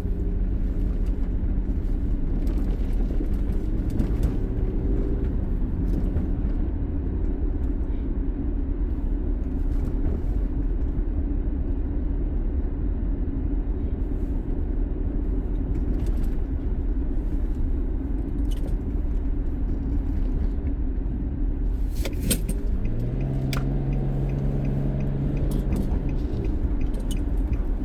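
Car driving, heard from inside the cabin: steady low road and engine rumble, with a few light clicks. Near the end a steadier engine hum rises slightly and holds for a few seconds.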